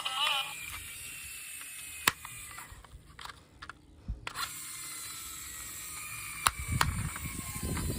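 Small plastic toy mechanisms being handled: a few sharp clicks and light ratcheting rattles, with denser rustling near the end.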